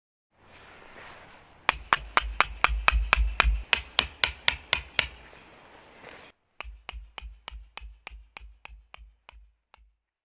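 Hammer driving a metal tent peg into the ground: a quick run of strikes about four a second, each a ringing clink over a dull thud, then after a brief break a second run that grows fainter.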